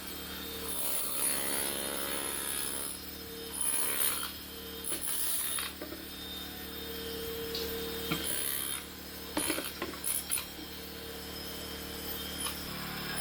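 Construction machinery working on a concrete floor slab: a steady machine hum under passages of scraping and grinding on concrete, with a cluster of sharp knocks about nine to ten seconds in.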